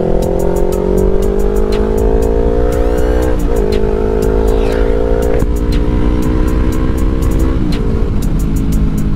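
Yamaha R3 motorcycle engine under way, its pitch climbing steadily as it accelerates, then dropping sharply at an upshift about a third of the way in and again near three-quarters.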